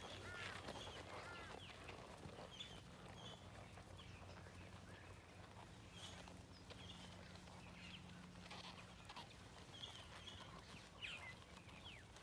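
Faint bird calls: many short chirps scattered throughout, over a low steady hum.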